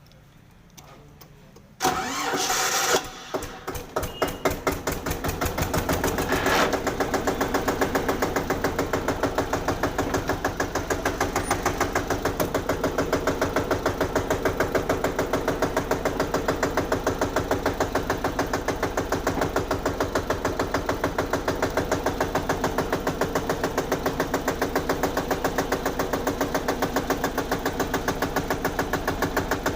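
Eicher 241 tractor's single-cylinder diesel engine started: it cranks and catches about two seconds in, runs raggedly for a few seconds, then settles into a steady idle with a distinct, even firing beat.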